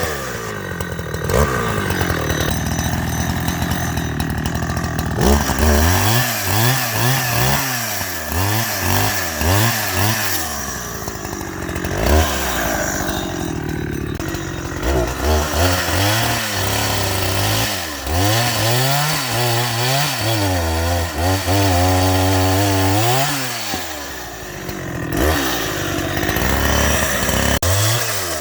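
Two-stroke chainsaw engine revving up and down over and over as it cuts wood, at times held at full speed for a few seconds before dropping back.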